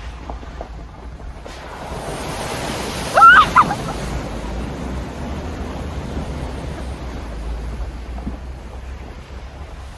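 Steady rushing of heavy rain, over a low rumble of wind on the microphone. About three seconds in, a short, loud, pitched cry bends up and down.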